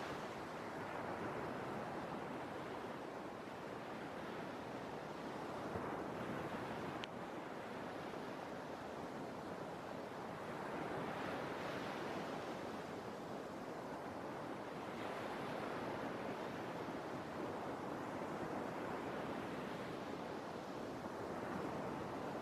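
Sea waves washing ashore in a continuous rush, swelling and easing every few seconds.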